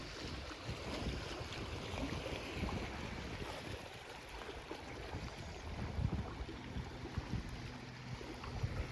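Wind buffeting the microphone in uneven gusts over the steady wash of calm waves on the water.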